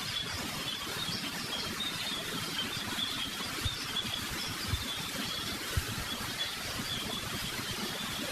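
Quiet ambience with a steady hiss and faint, irregular high chirping throughout, and a few soft low thumps a little after the middle.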